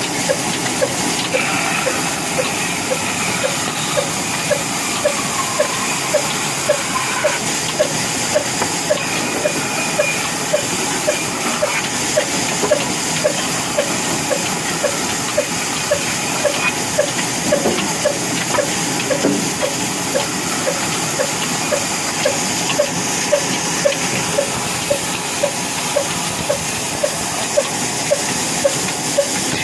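Old Ruston stationary engine running slowly and steadily, with a regular beat about twice a second over a steady hiss.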